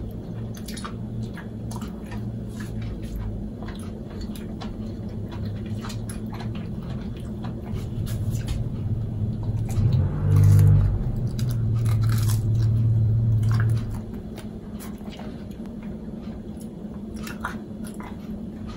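Close-up biting and chewing of vegan pizza with a crisp crust, heard as many small crunching clicks over a steady low hum. A louder low drone swells about eight seconds in, is loudest around ten seconds and stops about fourteen seconds in.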